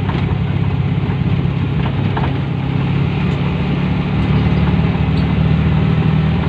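A homemade car's 100 cc Honda Supra motorcycle engine running steadily in eighth gear on a downhill stretch, heard from inside the cabin, a little louder about four seconds in.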